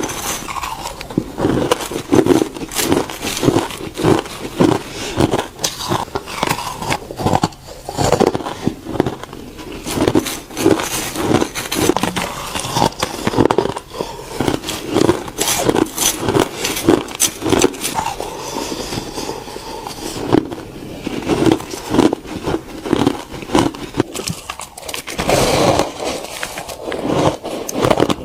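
Ice being bitten and chewed close to the microphone, a steady run of loud crunches about two a second.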